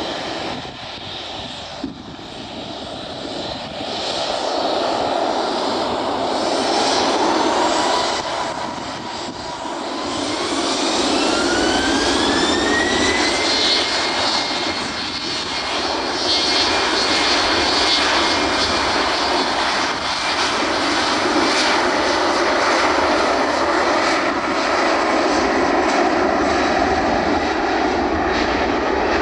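Embraer E190's twin GE CF34-10E turbofan engines spooling up to take-off thrust: a whine rises in pitch over about three seconds, a third of the way in. It then settles into a steady loud jet roar with a low rumble through the take-off run.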